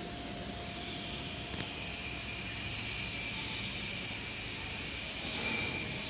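HOWO vacuum tank truck running: a steady hiss with a faint high whine over a low hum, and a short click about a second and a half in.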